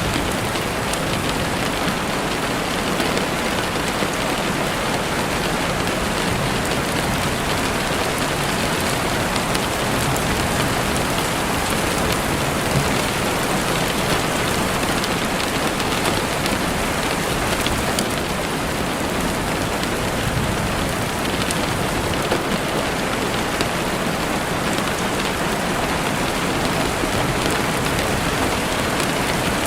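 Steady rain falling on leaves and ground, with a few sharp crackling pops from a campfire now and then.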